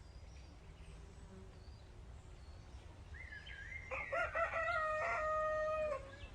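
A rooster crowing once, a single cock-a-doodle-doo of about three seconds starting around halfway through, rising and then held on one note before it breaks off. A low steady background rumble runs under it.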